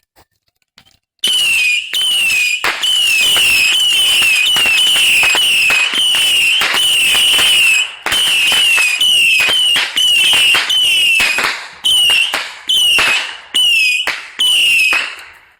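Consumer firework going off: a shrill whistle falling in pitch over and over, a few times a second, over dense crackling. It starts suddenly about a second in and breaks into separate whistles in the last few seconds.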